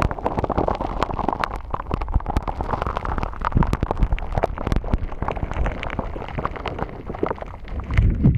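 Hands squishing and kneading a gritty shaved-ice (kakigori) slime close to a binaural microphone: a dense, continuous run of small pops and crackles.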